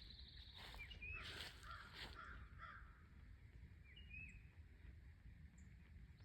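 Faint birds calling: a few short rising chirps and some lower repeated calls in the first few seconds, with a few soft knocks early on and a low steady rumble of wind or handling underneath.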